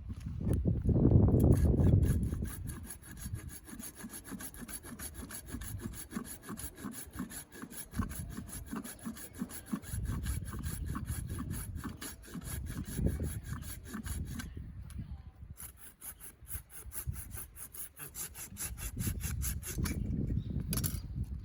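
Hand saw cutting wood with rapid, even strokes. There is a short pause about two-thirds of the way through, then more sawing that stops near the end.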